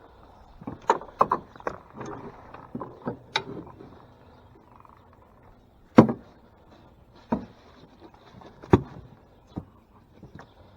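Sharp knocks and clatters against a small fishing boat: a quick run of them in the first few seconds, then four single knocks a second or so apart.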